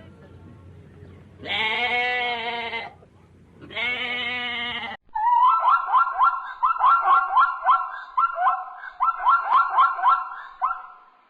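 Livestock bleating twice in two long, wavering calls, then a different animal gives a rapid, uneven run of short repeated calls for about six seconds, louder than the bleats and fading out near the end.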